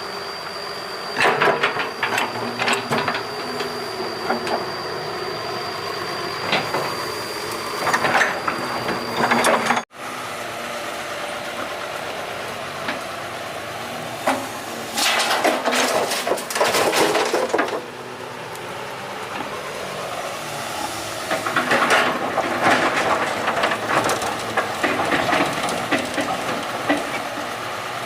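Doosan 140 excavator's diesel engine running steadily, with repeated bursts of clattering and scraping from the machine at work, some lasting a couple of seconds or more.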